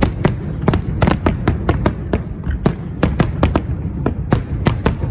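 Aerial fireworks bursting: a rapid, irregular run of sharp bangs, several a second, over a continuous low rumble.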